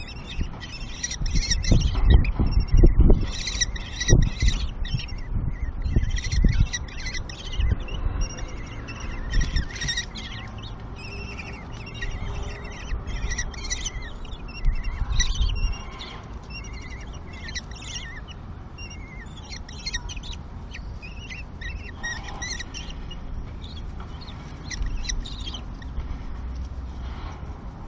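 Common kestrels calling, a rapid stream of short, high calls, with low bumps and thuds through roughly the first eight seconds.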